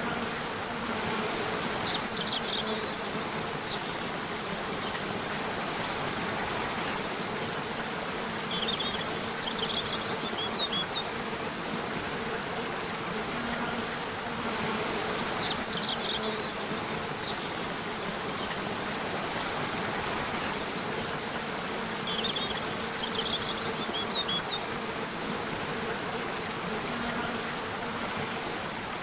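Nature soundscape: a steady hiss of flowing water under a low, steady insect buzz, with clusters of short high chirps breaking in about six times.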